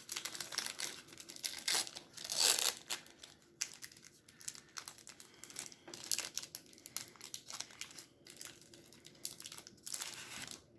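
Paper-and-foil rustling and crinkling as trading cards and their pack wrapper are handled, in irregular bursts; the loudest comes about two seconds in.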